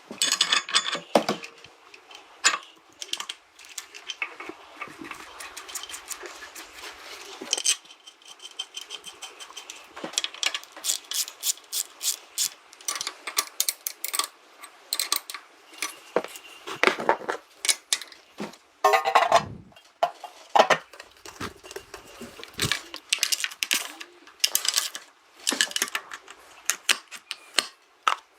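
Irregular light metallic clicks, clinks and taps, with brief ringing on some, as of hand tools and small metal parts being handled.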